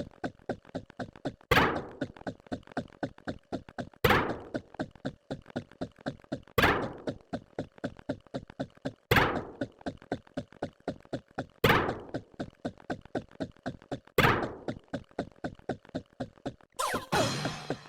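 A rapid, even run of short thunking sound effects, about four a second, with a louder hit roughly every two and a half seconds and a brief rushing burst near the end.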